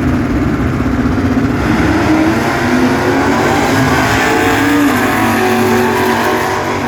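Drag-racing cars accelerating hard down the strip, engines loud, with several engine notes climbing in pitch.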